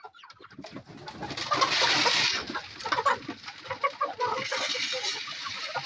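A flock of chickens clucking busily, many short calls overlapping. A loud rustling rush swells about a second and a half in and again about four and a half seconds in.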